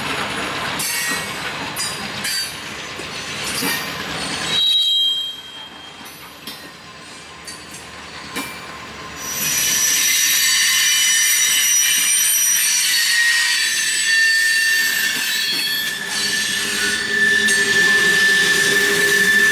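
Freight cars rolling slowly on jointed track, with clanks and clicks. From about halfway through, the steel wheels squeal against the rails in several high tones, and one tone is held steadily to the end.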